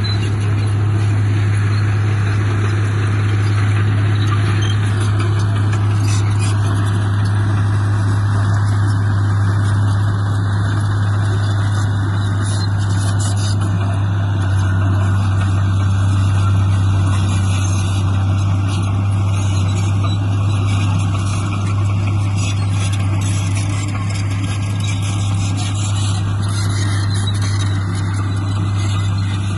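Heavy construction machine's diesel engine running steadily, with a strong constant low hum.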